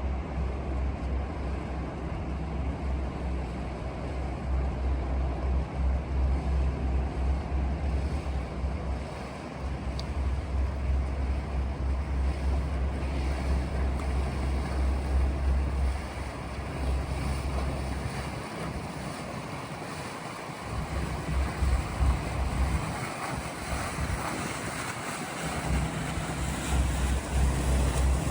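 Wind buffeting the microphone in gusts over a steady rush of water and motor noise from a moving sightseeing boat on a river. The buffeting drops away for a few seconds past the middle and returns near the end.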